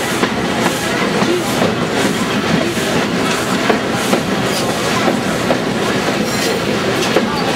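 Train running on the rails: a steady rumble with regular clicks about twice a second, heard from aboard the moving train.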